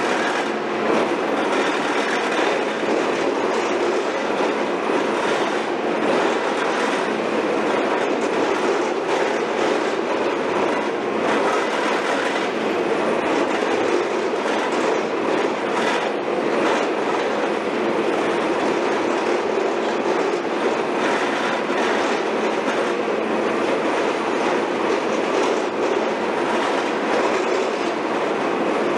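Heavy construction machinery running steadily on site, a dense continuous mechanical noise with no pauses or changes in level.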